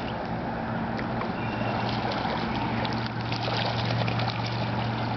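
River water lapping and splashing around a swimming dog, with small scattered splashes, over a steady low motor hum.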